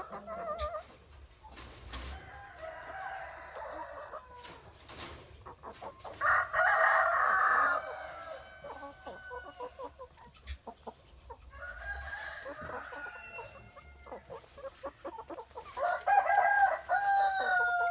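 Roosters crowing again and again, the loudest crow about six seconds in, with hens clucking between the crows.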